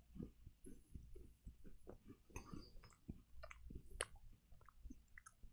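Faint chewing of a crumbly, crunchy black sesame tart cookie: a run of small, irregular crunches.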